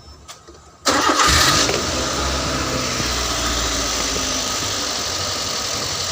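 Daihatsu Gran Max van engine started about a second in, catching at once with a brief flare, then settling to a steady idle, freshly filled with new oil.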